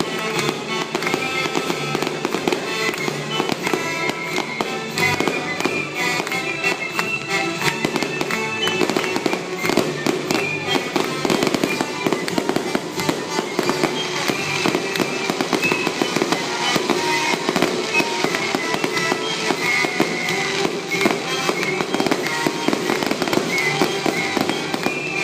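Fireworks bursting and crackling in rapid succession, mixed with background music.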